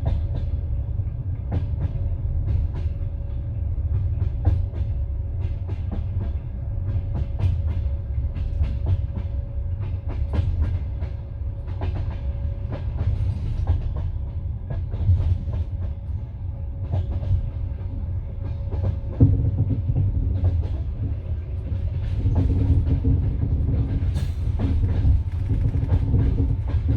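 Passenger train carriage running on the rails, its wheels clattering over rail joints with a steady low rumble beneath. A thump comes about two-thirds of the way through, after which a different hum sets in.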